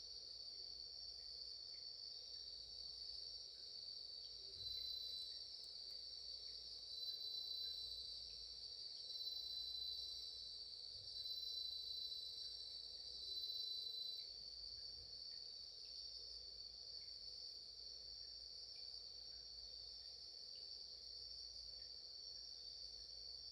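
Chorus of singing insects, a steady high trill, with one nearer insect calling louder in five phrases about two seconds apart during the first half.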